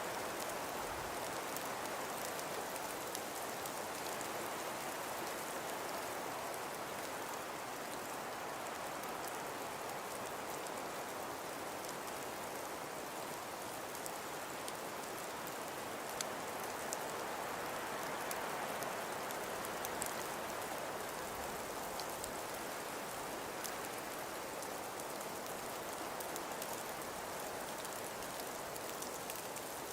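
Steady blizzard ambience: wind carrying a dense hiss of falling snow, slowly swelling and easing, with scattered faint ticks of snow grains striking.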